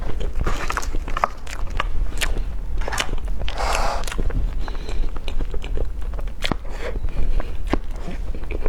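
Close-miked eating: a person biting and chewing food, with many sharp clicks and crunches and a longer noisy burst a little before the middle.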